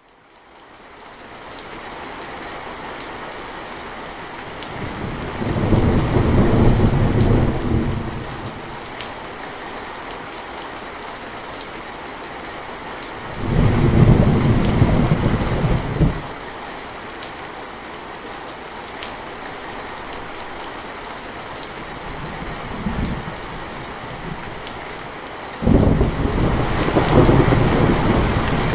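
Steady rain falling, fading in from silence, with rolls of low thunder rumbling in four times: a long roll a few seconds in, another in the middle, a short one after that, and a loud one near the end.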